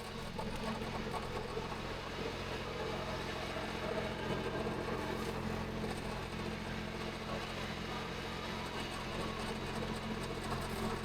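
RIPPA RS06-2 skid steer loader's engine running at a steady speed, with an even low hum.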